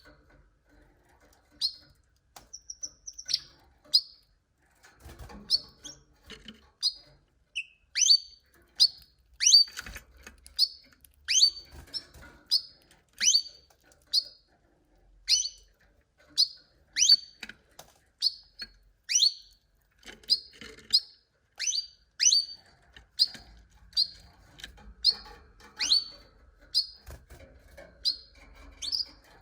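Domestic canary giving a long series of short, sharp chirps, each a quick downward sweep, sparse at first and then coming about one or two a second.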